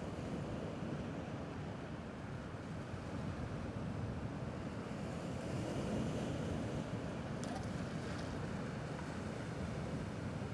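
Gentle sea waves washing against the rocky shore, heard as a steady low wash with some wind, swelling a little about halfway through.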